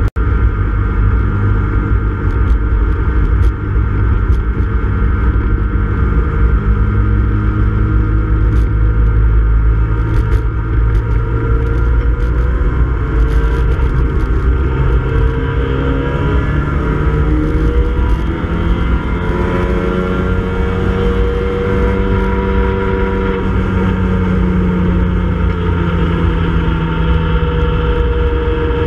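Classic Mini Cooper S race car's BMC A-series four-cylinder engine heard from inside the cabin, running at a steady, moderate pace under a full course caution. Its pitch rises and falls gently in the second half, over road and wind noise.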